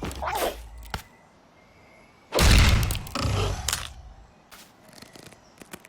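Cartoon sound effects: a short gliding vocal sound at the start, then a loud, noisy crash-like burst about two and a half seconds in, a smaller one just after it, and a few light clicks.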